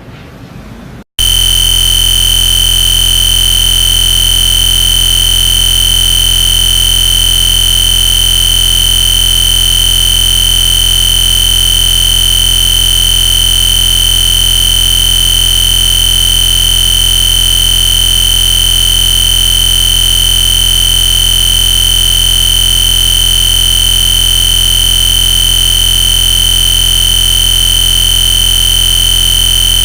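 Wind and road noise, cut off after about a second by a brief dropout, then a loud, unchanging electronic buzz with a piercing high tone that holds without variation.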